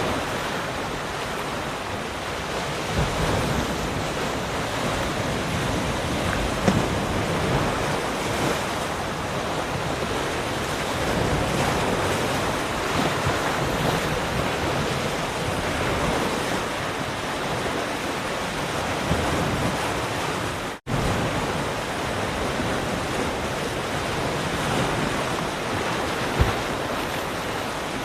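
Ocean surf washing steadily, a continuous rushing of waves that swells and eases. The sound drops out completely for an instant about two-thirds of the way through.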